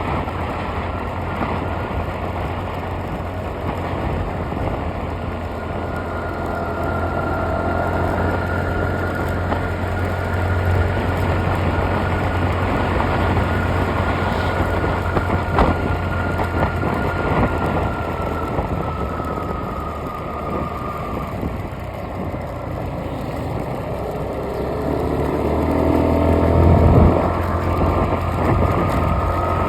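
A moving road vehicle: a steady low engine drone with road noise and a faint high whine. A single sharp click sounds about halfway through, and a louder surge comes near the end.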